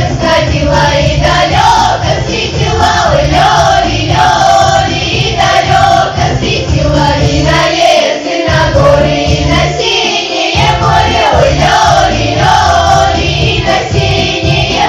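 Children's folk ensemble singing a Russian folk song together as a choir, over instrumental accompaniment with a rhythmic bass part. The bass drops out briefly twice near the middle while the singing carries on.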